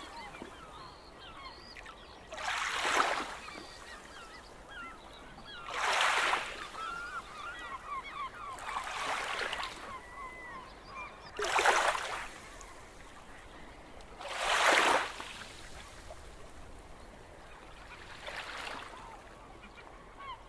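Waves washing in about every three seconds, each a rising and falling rush, with many birds calling in short chirps and honks throughout.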